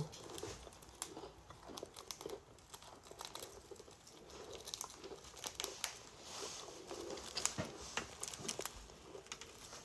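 Faint crinkling and small crunching clicks of snack food being handled and eaten, scattered irregularly.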